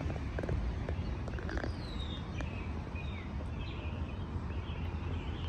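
Birds calling in a run of short chirps that slide downward in pitch, starting about two seconds in, over a steady low rumble.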